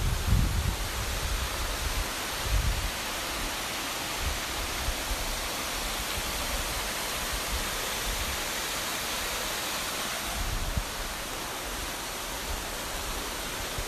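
Steady rushing of a waterfall, an even hiss across the whole range, with a few brief low rumbles of wind or handling on the microphone.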